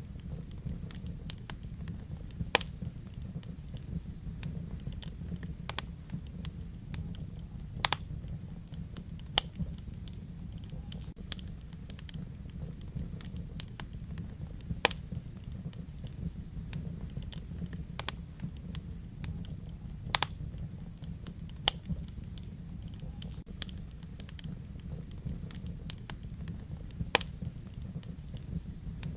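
Wood fire crackling in a fireplace: a steady low rumble of the flames with irregular small crackles and several louder sharp pops scattered throughout.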